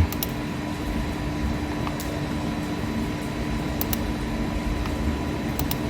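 A steady mechanical hum with a faint low tone running through it, and a few faint clicks.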